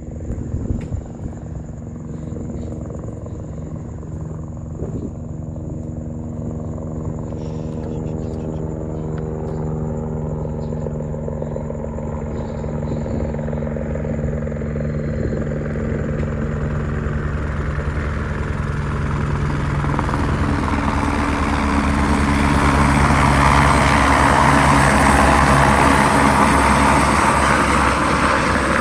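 Airbus H125 (Eurocopter AS350 Écureuil) helicopter approaching to land: the steady beat of its three-blade main rotor with the whine and rush of its single turbine engine. It grows steadily louder and is loudest near the end.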